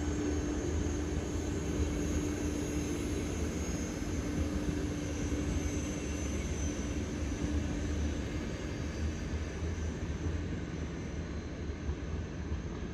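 Train running by with a steady low rumble and a faint high whine that slowly drops in pitch; a low hum fades out about halfway through.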